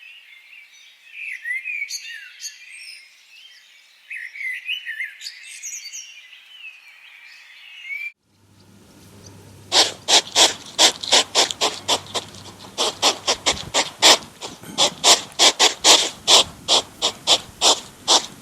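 Small birds chirping, then, after a cut, a frog croaking in a loud, regular run of short pulses, about three a second.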